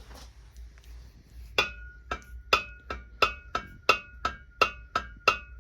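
Camshaft rocked by hand in the warped bearing bed of a ZMZ 405/406 cylinder head, knocking metal on metal at about three knocks a second with a short ring, starting about a second and a half in. The knocking comes from the play of the shaft in a crooked, humped cam bed, the cause of lost oil pressure.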